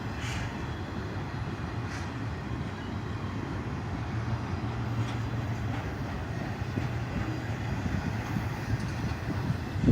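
Freight train of intermodal spine cars rolling past on the rails: a steady rumble with a few faint clicks.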